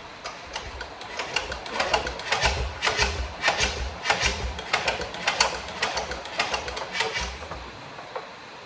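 Repeated metallic clanks with low thuds, about two or three a second, from the old Massey baler's engine and its starting handle being turned over by hand; the clanking stops about a second before the end.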